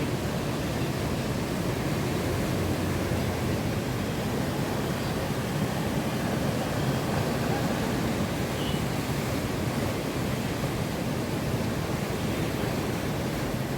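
Monsoon sea surf and wind: a steady, unbroken rush of breaking waves with no single wave standing out.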